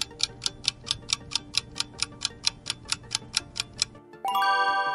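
Countdown-timer sound effect: a clock ticking fast and evenly, about four to five ticks a second, over soft background music, then a loud bright chime about four seconds in, marking the end of the answer time.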